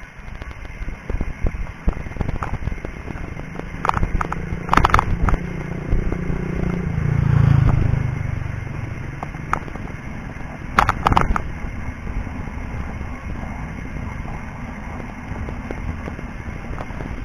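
Bicycle riding over a rough, muddy road: a steady low rumble and wind noise, with scattered rattles and clacks from the bike. Two clusters of sharper knocks come about four seconds in and again about eleven seconds in. A low engine rumble rises and fades around seven to eight seconds in, like a motor vehicle passing.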